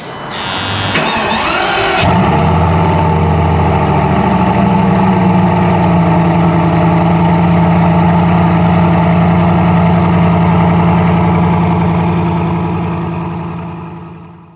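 Bugatti Veyron's quad-turbocharged W16 engine being started: the starter cranks for about two seconds before the engine catches and settles into a steady idle, which fades out near the end.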